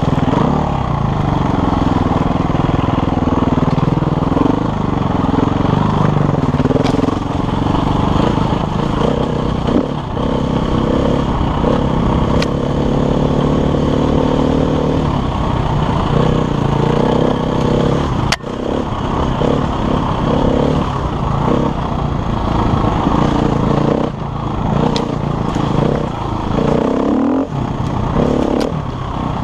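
KTM enduro dirt bike engine being ridden hard, revving up and falling back again and again as the throttle is worked. A few sharp knocks cut through, the loudest about two-thirds of the way in.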